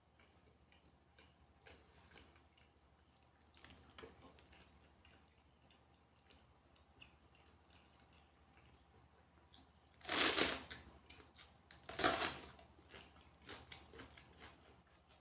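Eating sounds: quiet chewing and small mouth and hand clicks, with two louder crunchy bursts about ten and twelve seconds in, typical of biting into raw vegetables.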